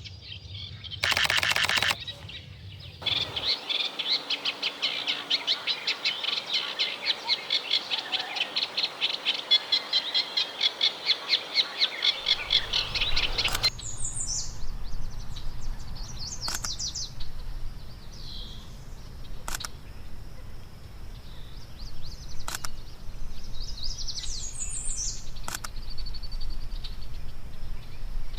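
Eurasian reed warbler singing a long, rhythmic chattering song of quickly repeated high notes, which stops abruptly about 14 seconds in. A short rapid clatter comes just before the song. After it, only scattered short bird calls and a few sharp clicks are left over a low rumble.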